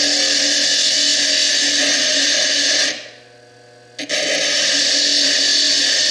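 Foredom bench lathe spinning a small slitting disc as it cuts into fire agate: a steady, high grinding whine. About three seconds in the cutting stops for a second, leaving only the faint hum of the lathe as the stone comes off the disc, then the grinding starts again.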